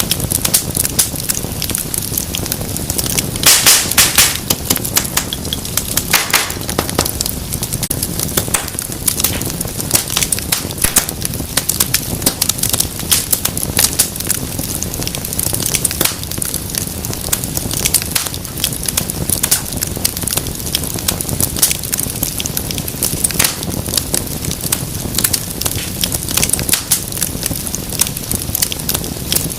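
Wood fire burning in a fireplace, with a steady low rumble of flame and dense crackling and snapping of the logs. A burst of louder pops comes about three and a half seconds in, and another shortly after.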